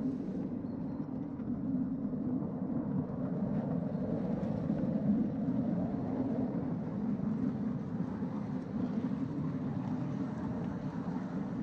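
Steady rumble of a ride-on 5-inch gauge miniature train running along the track, its wheels rolling on the rails.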